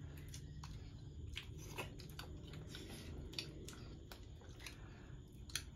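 Faint sounds of people eating by hand: chewing and scattered small clicks and taps, one a little louder near the end, over a low steady room rumble.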